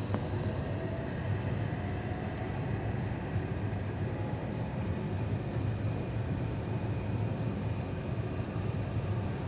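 Steady low cabin rumble inside an Airbus A350-941, with a faint whine above it.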